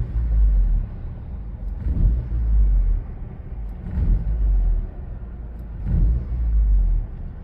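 Audi A4 B7 2.0 turbo four-cylinder engine running rough, its rumble rising and falling in surges about every two seconds, four times. The engine has a rough idle and tends to stall.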